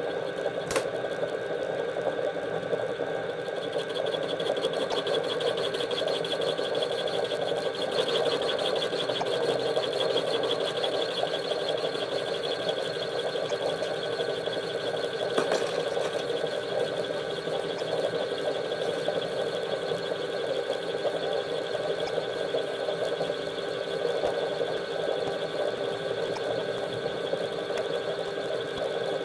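A small electric motor running steadily with an even hum and whine.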